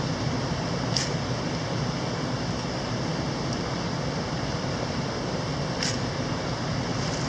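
Steady rush of a mountain stream, with two brief scrapes of a ferro rod striker, one about a second in and one near six seconds in.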